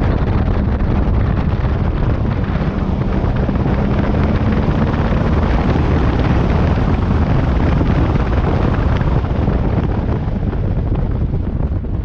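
Wind buffeting the microphone of a moving motorcycle, with the bike's engine running underneath, its pitch rising slightly through the middle.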